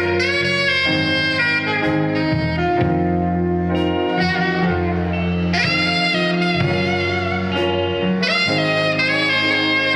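Live band playing an instrumental tune: a lead instrument holds long melody notes with vibrato over steady chords and bass.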